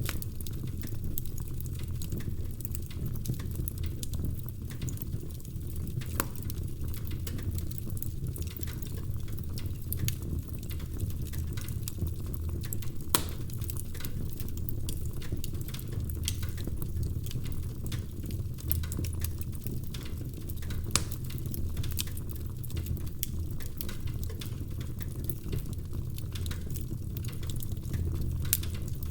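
Log fire burning in a fireplace: a steady low rumble of flames with frequent small crackles and pops from the burning wood, and a few louder single pops now and then.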